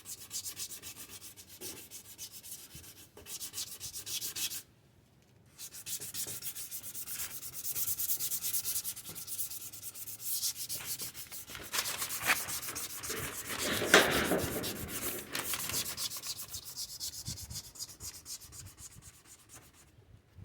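Sandpaper being rubbed in quick strokes over a plastic headlight lens. There is a short pause about five seconds in.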